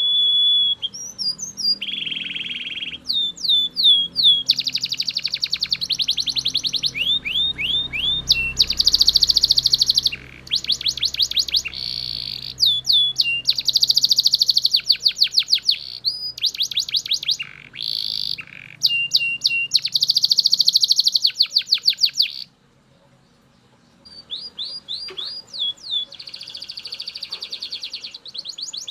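Male Belgian canary singing: long, high-pitched phrases of rapid trills and fast repeated notes, broken by a short pause about 23 seconds in before the song starts again.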